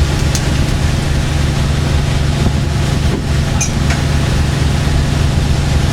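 A fishing boat's engine running steadily, a loud, even drone with a low throb.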